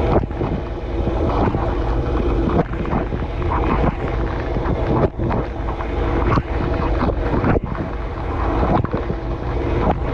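Dishwasher wash pump running and water jets spraying against the dishes and the camera, heard from inside the dishwasher: a dense, steady rush over a low motor hum, with brief dips in the spray now and then.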